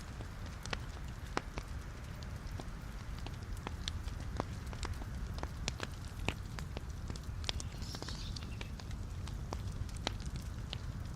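Wood fire burning in a fireplace: irregular sharp crackles and pops from the burning logs over a steady low rumble of the flames, with a brief hiss about eight seconds in.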